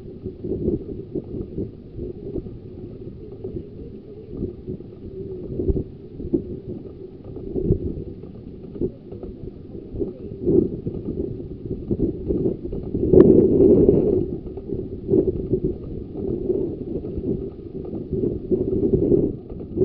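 Small-gauge railway train running: a continuous rumble and clatter of carriage wheels on the track, rising to a louder surge about two-thirds of the way through.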